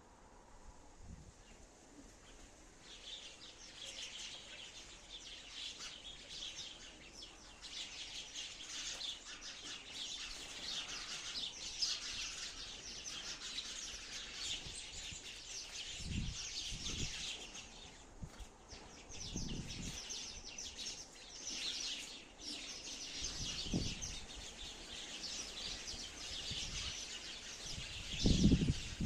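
Sparrows chirping continuously, many quick calls overlapping like a chattering flock, building up about three seconds in. Several short low thumps come through in the second half.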